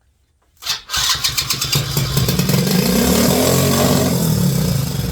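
Pit bike's small engine starting about half a second in, revving up, then sagging and dying down as it stalls. The owner suspects a carburettor problem.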